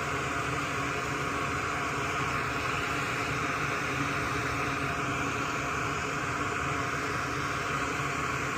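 Steady whir and hiss of a small electric fan or blower motor, running evenly with a faint hum under it.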